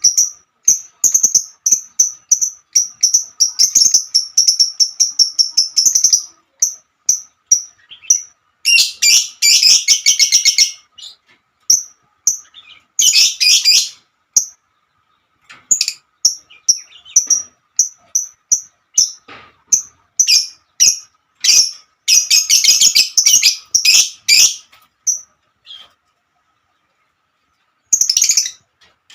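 Lovebird chirping: a run of short, high, sharp chirps, about two a second, broken by several stretches of fast chattering, with a pause of about two seconds near the end.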